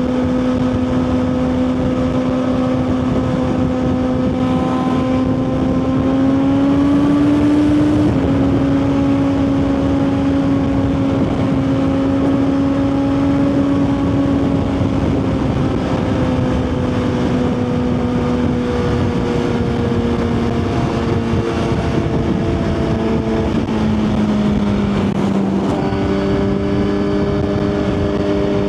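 2023 Suzuki GSX-R1000's inline-four engine running at a steady cruise under the rush of wind. The engine pitch rises briefly about six seconds in and drops sharply at a gear change about eight seconds in, then sinks slowly and drops again near the end.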